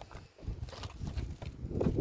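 Dull wooden knocks during firewood splitting: a few light, irregular knocks, then a heavier one near the end.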